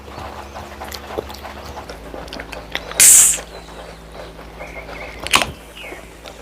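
Close-up eating sounds of a person eating chole bhature: wet chewing and mouth clicks, with a short loud hissing burst about three seconds in and a sharp click about five seconds in.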